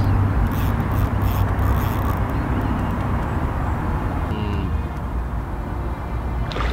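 Steady low rumble with a noisy hiss above it, without clicks or rhythm.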